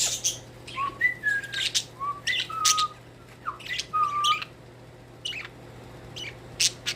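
Pet budgerigars chirping and whistling: short sharp chirps mixed with brief whistled notes, some held level and some gliding, thinning out after the middle.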